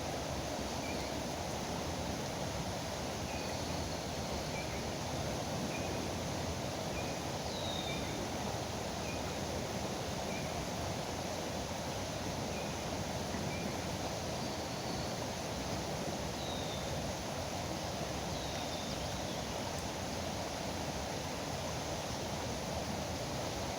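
Steady rush of river water, with birds giving short high chirps and a few falling whistled notes throughout.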